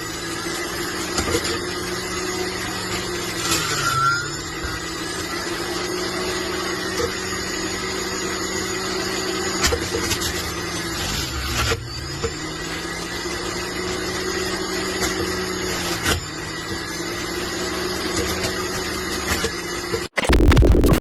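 Electric juicer motor running with a steady hum. Its pitch sags briefly and recovers about four, twelve and sixteen seconds in, as the motor is loaded. A short, loud, harsher burst comes just before the end.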